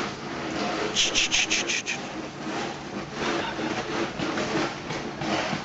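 Footsteps crunching and scraping on ice-glazed ground, with a quick run of about five sharp crackles about a second in.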